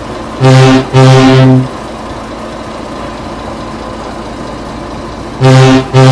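A low, deep locomotive-style horn sounding twice about five seconds apart, each time a short blast followed at once by a longer one. The blasts are very loud, far above a steady background hiss.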